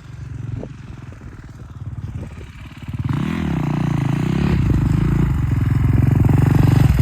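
Dirt bike engine running. About three seconds in, the throttle opens with a rev that rises and dips in pitch, and the engine then holds a higher, steadily louder note.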